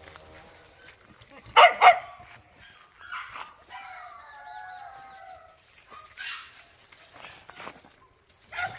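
A dog barks twice in quick succession about one and a half seconds in, followed by fainter wavering yelps and whines.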